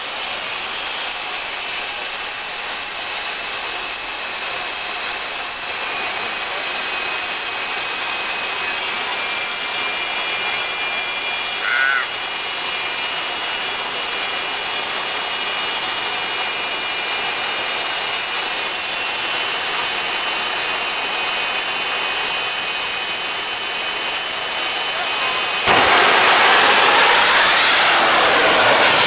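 Aircraft jet turbine running with a steady high-pitched whine that steps up in pitch a few times. About 26 seconds in, it turns abruptly to a louder, broader rush.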